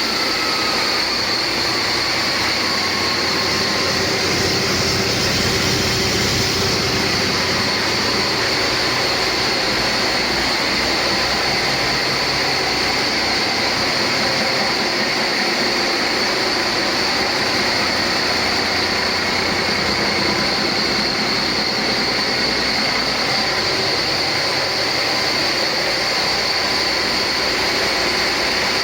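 2009 Cummins ISX inline-six diesel engine running steadily on a test run, with a steady high whine over the engine noise. A second whine falls in pitch and fades during the first couple of seconds as the engine settles.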